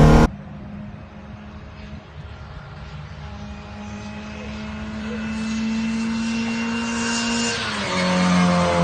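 A rally car's engine running at steady revs and growing louder, then dropping in pitch in a quick step near the end as the revs fall.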